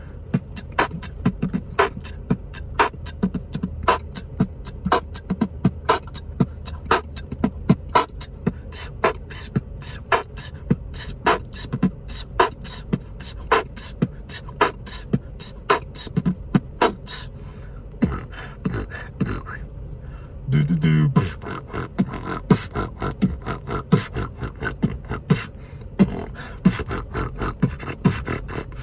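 Solo beatboxing: a fast run of mouth-made percussive hits, several a second. There is a short break about two-thirds of the way through, then a brief hummed bass note before the beat resumes.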